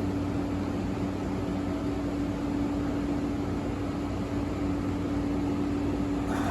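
Train running with a steady hum at one pitch over a wash of running noise.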